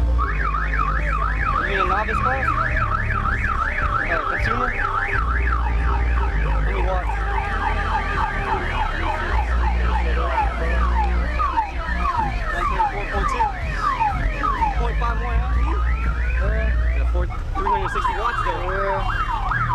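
Electronic multi-tone car alarm siren cycling through its patterns: a fast up-and-down warble, then a run of repeated falling sweeps, then the warble again near the end. Deep bass plays steadily underneath.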